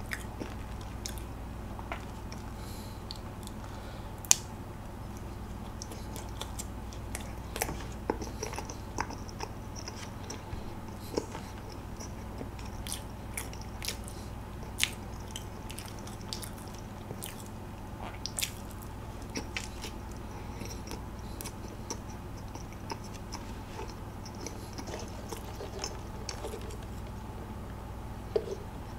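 Close-miked mouth sounds of someone chewing and biting soft baked donuts dipped in whipped cream: small wet smacks and clicks scattered throughout, over a steady low hum.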